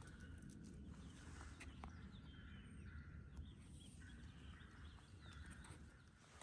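Near silence in the woods: faint, scattered chirps of distant songbirds over a low, steady rumble of background noise.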